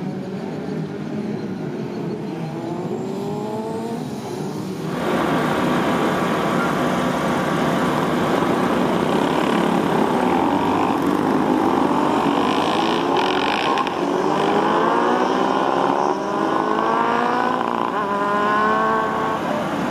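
Race motorcycle's 400 cc V4 engine (a Honda VFR400R NC30 unit) accelerating hard, its pitch climbing and dropping back several times as it shifts up through the gears. About five seconds in the sound gets suddenly louder and harsher.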